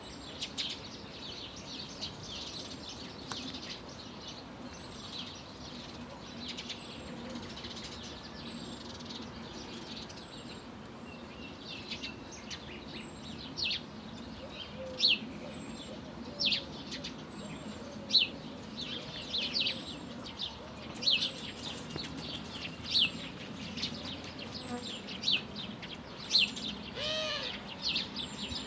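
Bees buzzing in a low steady hum while songbirds chirp, the chirps getting louder and more frequent from about halfway through, with a thin high note repeated about every second and a half.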